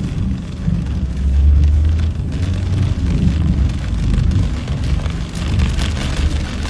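Rain falling steadily, with a loud low rumble underneath that swells and fades; the rain's hiss grows stronger near the end.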